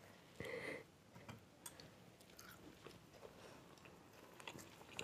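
Faint chewing and small mouth clicks of people eating soft steamed idli, with one brief voice sound about half a second in.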